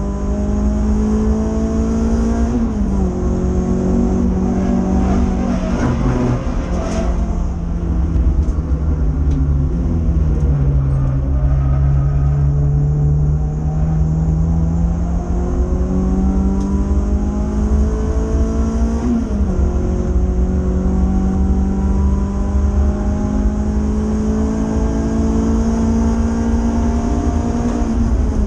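Renault Clio 182's 2.0-litre four-cylinder engine at racing speed, heard inside the cabin over road and wind roar. The engine note climbs and drops sharply with gear changes, sinking lowest through a slow corner about ten seconds in before climbing again.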